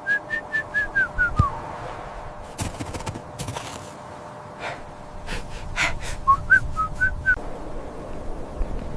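A quick run of short whistled notes falling in pitch, then, about six seconds in, a short whistled phrase that rises and falls, with soft taps in between.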